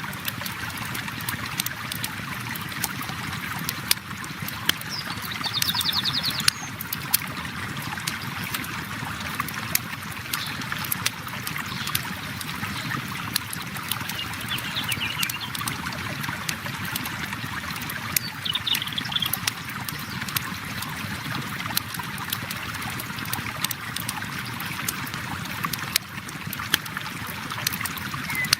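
River water flowing steadily, mixed with a crackling campfire giving frequent sharp pops. A few short high trills come through, about six seconds in and twice more later.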